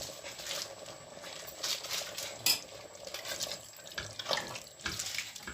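Bolognese ragù of minced meat cooking in a pan with a wet sizzle, stirred with a spoon that clicks against the pan now and then. The meat is giving off its water as it cooks.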